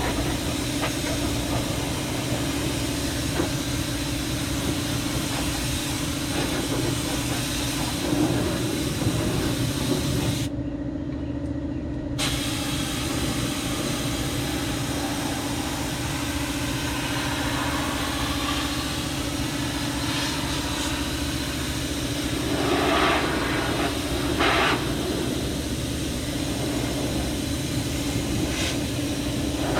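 Air-powered undercoating spray gun hissing steadily as it sprays rubberized undercoating, over a steady machine hum. The spray cuts off for about two seconds some ten seconds in, then resumes.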